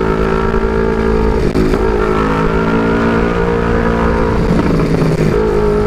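Two-cylinder big-bike motorcycle engine running under way through its aftermarket exhaust, a steady note whose pitch sags and recovers twice, over a low wind rumble. The rider finds this exhaust too noisy and means to replace the muffler.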